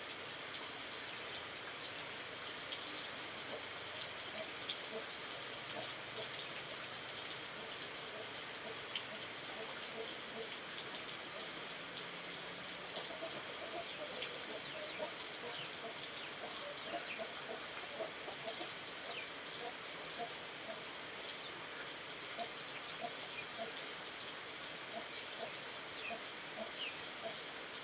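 Steady rain falling, with many small drops tapping, and short faint calls repeating through the second half.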